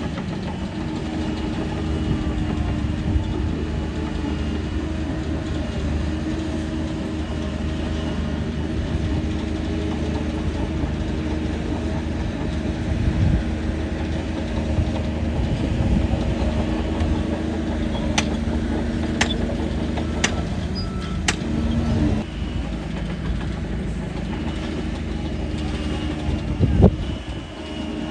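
Shantui DH17 bulldozer's diesel engine running steadily under work, with a few sharp metallic clicks about two-thirds of the way in and a thump near the end.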